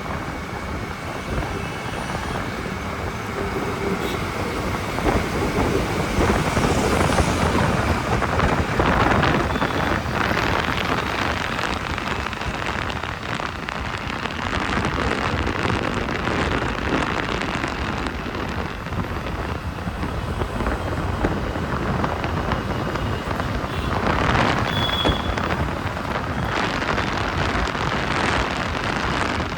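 Wind rushing over the microphone of a moving motorcycle, with road and traffic noise and light rain, swelling a couple of times.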